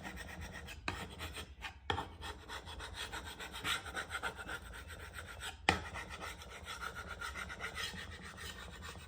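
Quick, repeated rubbing and scraping strokes across a timber cabinet top, working off paint softened by paint stripper, with a few sharper knocks.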